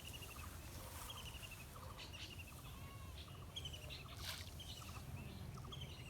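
Birds calling outdoors: short runs of quick, high chirping notes repeated about once a second, with fainter lower note runs between them, over a steady low rumble.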